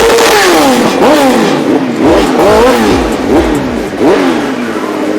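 Drag-racing motorcycle engines at full throttle, accelerating down the strip and shifting up through the gears: the engine note climbs, drops sharply at each change, and climbs again several times.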